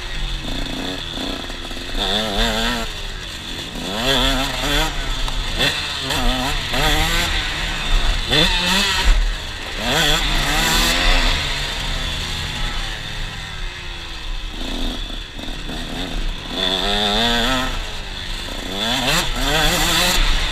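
KTM 125 SX two-stroke single-cylinder engine being ridden hard, revving up sharply and dropping off again every couple of seconds as the throttle opens and closes, with a steady low rumble underneath.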